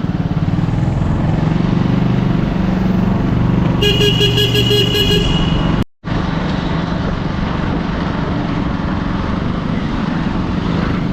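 Motorcycle engine running steadily under way, with a vehicle horn sounding in a rapid pulsing pattern for about a second and a half, about four seconds in. The sound cuts out for a moment just before six seconds, then the engine noise resumes.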